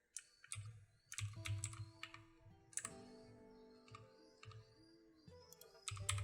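Computer keyboard keystrokes and clicks in irregular clusters over soft background music with held notes.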